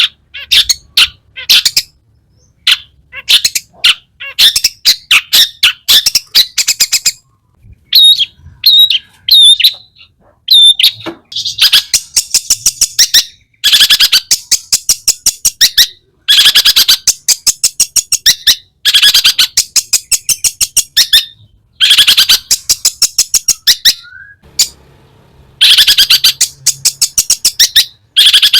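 Long-tailed shrike in full song: loud, rapid, harsh chattering delivered in bursts of one to three seconds with short pauses between, and a run of separate clearer notes about eight to ten seconds in.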